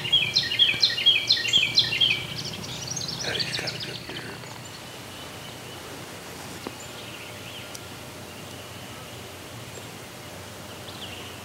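A bird's loud, rapid run of high chirping notes for about two seconds, with a few more calls about three and a half seconds in, then steady outdoor background.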